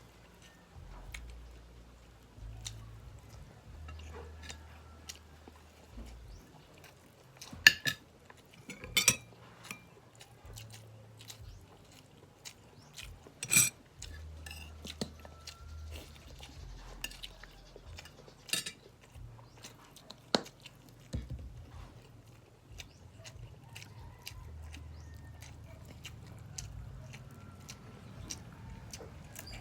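Close-miked eating of fried milkfish and corn rice: chewing and mouth sounds, with several sharp clinks of utensils against a plate.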